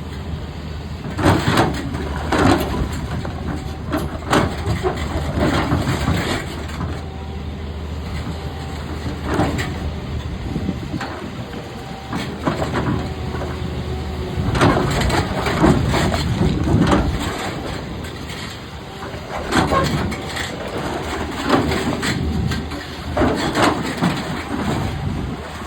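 Doosan DX390 excavator's diesel engine running steadily while its bucket works rock, with repeated loud knocks and grinding of stone against steel every second or two.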